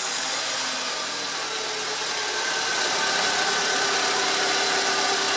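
Fiat Uno 1.4 EVO's four-cylinder engine idling steadily just after starting, heard close up under the open hood.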